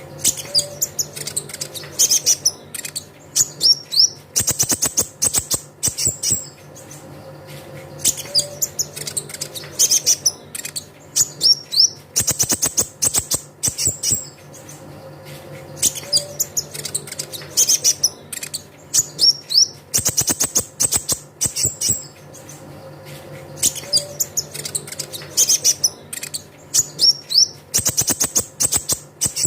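Konin (kolibri ninja) sunbird song from a lure recording: rapid high-pitched chirps and trills in bursts, the same phrase pattern repeating about every four seconds, over a faint steady low hum.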